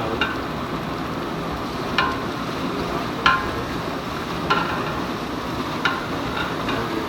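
Chicken gizzards frying in masala with a steady sizzle, as a spoon stirs the pot and knocks sharply against its side every second or two.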